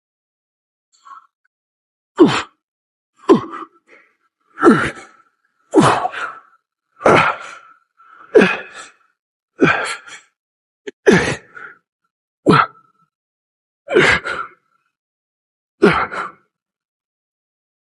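A man breathing out hard with each rep of a weighted set, about eleven sharp, loud exhalations roughly one every second and a half, starting about two seconds in.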